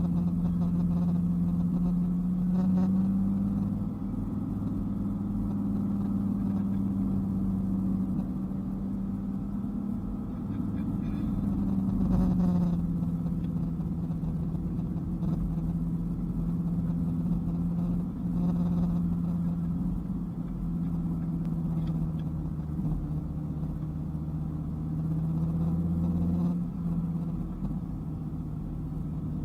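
Dodge Viper's V10 engine running steadily at cruising speed on the road, its pitch drifting slightly up and down, with road noise underneath.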